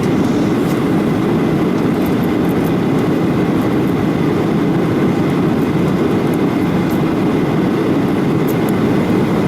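Passenger airliner cabin noise in flight: a steady, dense rumble of engine and airflow noise, heaviest in the low-mid range, with a few faint ticks.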